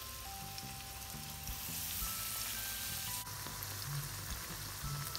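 Batter-coated jackfruit pieces frying in hot oil in a pan, with a steady sizzle, under light background music of single held notes.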